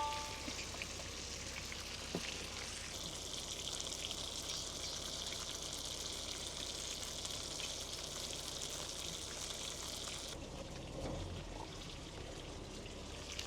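Chicken breast frying in a pan, sizzling steadily, with a short ringing tone at the start. The sizzle cuts off suddenly about ten seconds in, leaving a faint low thump.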